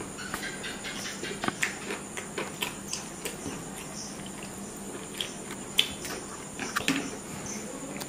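Close chewing and lip smacking on pieces of grilled chicken kebab: irregular soft wet clicks, the sharpest about six seconds in.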